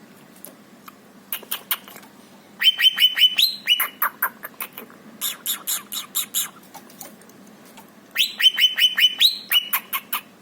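Cucak ijo (greater green leafbird) singing in bursts of quick, sharp repeated notes. The two loudest runs come about two and a half seconds in and again near the end.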